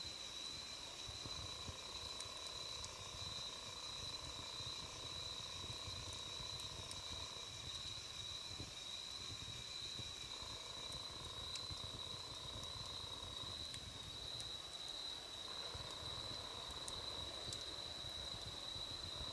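Wood campfire burning low, with a soft rumble and an occasional faint pop. Over it runs a steady, high, slightly pulsing insect trill, like crickets, with no break.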